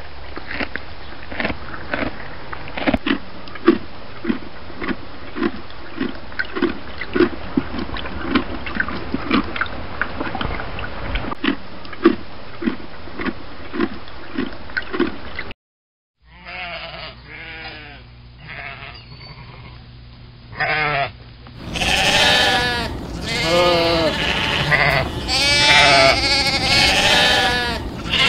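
A greater kudu chewing, a regular crunch about twice a second. After a short break, a flock of sheep bleating loudly in many overlapping calls from about two-thirds of the way in.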